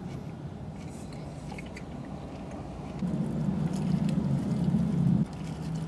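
A person biting into and chewing a crispy chicken wrap, with faint crunches and paper wrapper rustles over a steady low hum inside a car. A louder low hum comes in about three seconds in and cuts off sharply near the end.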